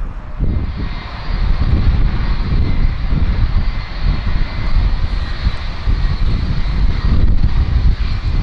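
Jet airliner engines running: a steady high whine that sets in about a second in, over a heavy, gusting low rumble.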